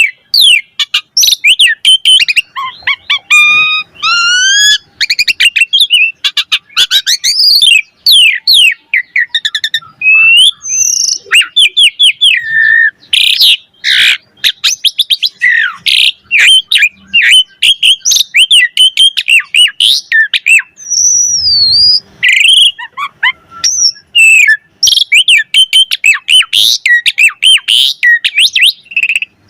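Asian pied starling (jalak suren) singing a fast, varied song of chirps, whistles and rising and falling sweeps, with a few sharp clicks around the middle.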